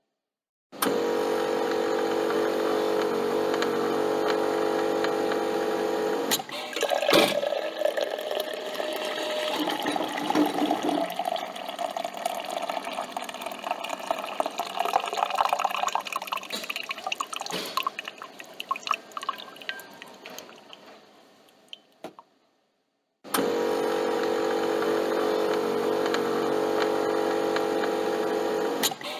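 Coffee machine working: a steady motor hum for about five seconds, then coffee running and dripping into the cup for some fifteen seconds, tailing off. After a second of silence the hum starts again.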